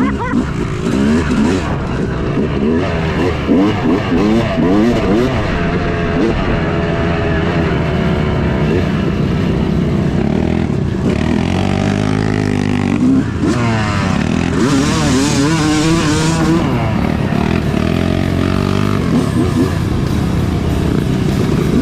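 Yamaha YZ250 two-stroke single-cylinder dirt bike engine riding a trail, its pitch rising and falling again and again as the throttle is opened and closed.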